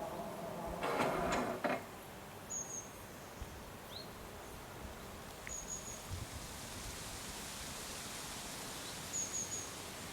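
Quiet open-air ambience with three short, high bird chirps spread through it, after a brief louder rush of noise about a second in.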